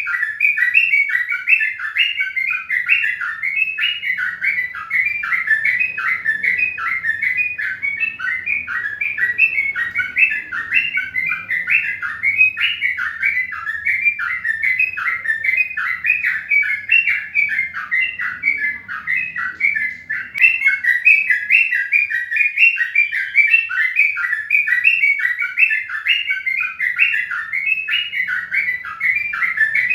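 Many small birds chirping rapidly and without pause, their short chirps overlapping into a continuous chorus.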